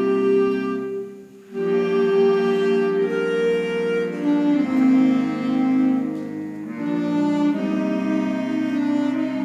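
School woodwind band playing slow, sustained chords, with a brief breath-pause about a second in before the next phrase.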